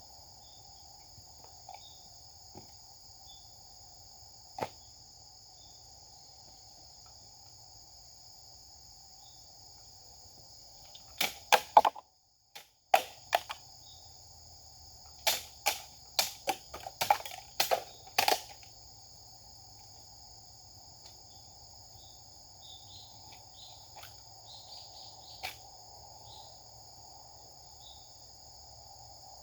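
Japanese sword being swung and cutting, heard as sharp cracks and swishes: a single one about four seconds in, then two rapid runs of them around the middle. Behind them, late-summer insects (crickets or cicadas) trill steadily throughout.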